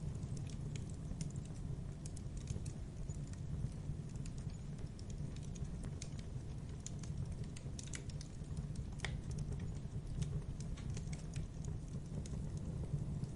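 Wood fire crackling in a fireplace: irregular small snaps and pops over a steady low rumble of the flames, with one sharper pop about nine seconds in.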